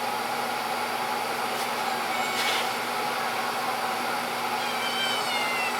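Old transformer-type battery charger humming steadily under load at its 40 amp setting while powering an electrolysis rust-removal bath, with a steady rushing noise over the hum.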